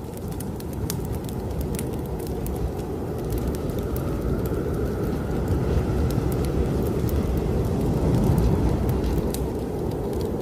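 Strong snowstorm wind rushing, swelling over the first few seconds into a steady low rumble with a faint whistling tone. Over it run the scattered crackles and pops of a wood fire burning in a fireplace.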